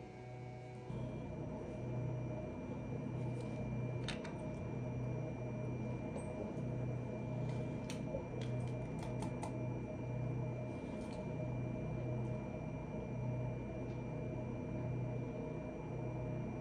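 A steady low hum that swells and fades slowly, with a faint high whine over it. Scattered light clicks and taps come through, a cluster of them near the middle.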